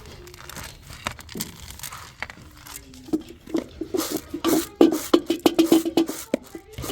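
Cooking utensils and pots clinking and knocking in a quick irregular run of clicks, busiest in the second half, with a steady low hum beneath them.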